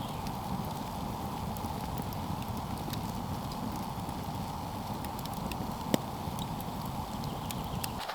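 Campfire crackling: scattered small sharp pops, one louder about six seconds in, over a steady low rumble.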